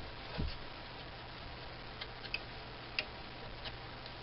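Faint, scattered light metal clicks and taps from hand tools working on a stuck lathe tool post, with a soft thump about half a second in, over a steady low hum.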